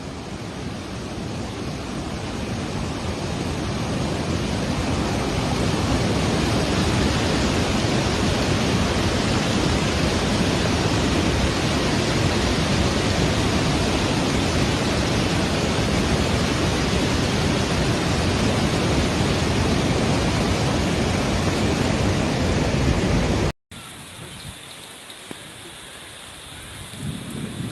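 Loud, steady rushing roar of water, building over the first few seconds and holding even. It cuts off abruptly about 23 seconds in, then returns quieter and swells again near the end.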